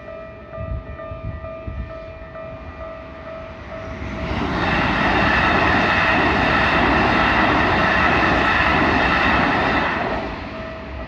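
Japanese level-crossing warning bell dinging in a steady repeating beat. About four seconds in, a train passes through the crossing for about six seconds, loud enough to cover the bell. The bell is heard again near the end.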